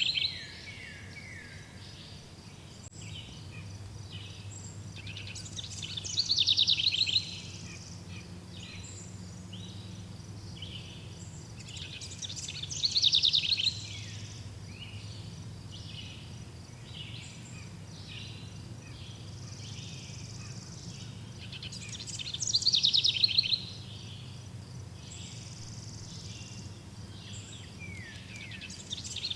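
Wild birds singing: a loud, fast, trilling song phrase of about a second comes roughly every six to nine seconds, over steady repeated smaller chirps. A faint low hum lies underneath.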